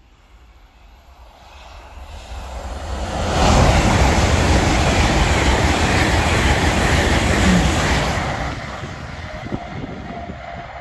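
LNER Azuma high-speed train passing at speed: a rush of wheel and rail noise that builds over the first few seconds, stays loud for about four seconds as the train goes by, then fades away.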